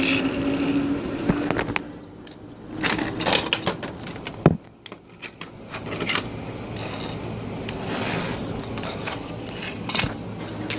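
An R142A subway car running between stations, heard from inside the car. A steady motor tone stops about two seconds in, leaving the rumble of the train with repeated clicks and knocks from the wheels on the track.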